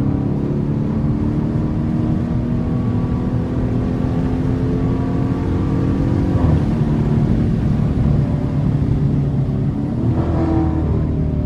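Dodge R/T's HEMI V8 engine pulling the car along, its pitch climbing slowly, dropping back about six and a half seconds in, then climbing again.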